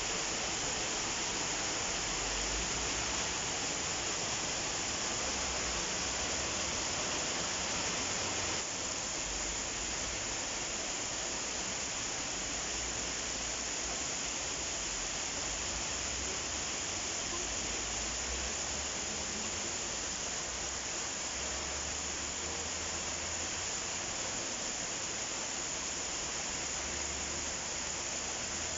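Steady summer rain falling, an even hiss of raindrops with no thunder; it drops slightly in level about nine seconds in.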